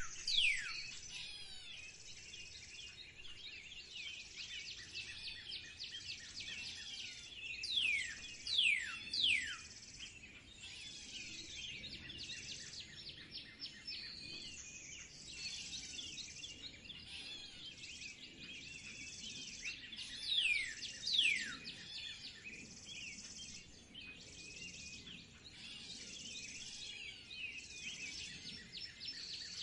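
Many small birds chirping and calling together, with loud whistles that slide steeply downward in pitch, coming in short runs: one near the start, three in quick succession about a third of the way in, and two about two-thirds through.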